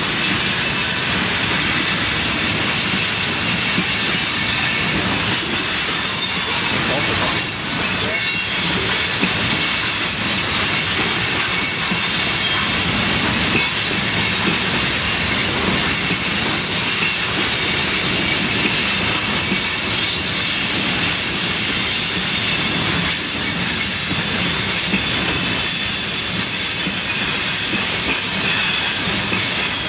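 CSX freight train of tank cars rolling steadily past a grade crossing: a loud, unbroken rush of steel wheels on rail.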